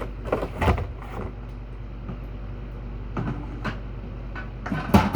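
Drink containers being handled and set into a fridge: a few separate knocks and clatters, the loudest near the end.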